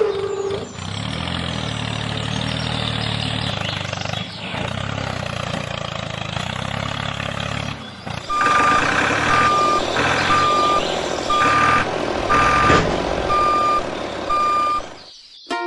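A vehicle engine running steadily, then a truck-style reversing alarm beeping about once a second, around seven beeps, while the engine keeps running.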